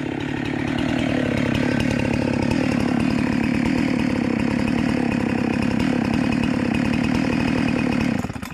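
Husqvarna two-stroke chainsaw running at high revs, climbing slightly about a second in and then holding steady, before the sound cuts off suddenly near the end.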